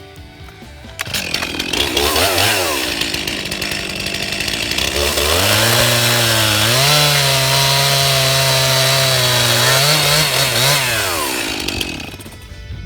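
Stihl chainsaw engine running, revving up to a high steady pitch for a few seconds, then dropping back and cutting out near the end.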